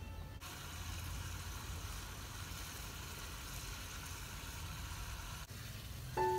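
Food frying in a wok over a wood fire: a steady sizzle over a low rumble, which breaks off shortly before music comes in near the end.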